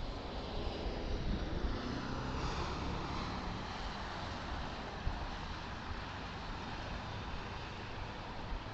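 Vehicle noise: a low rumble with a whooshing swell that builds about a second in and eases off, leaving a steady road rumble.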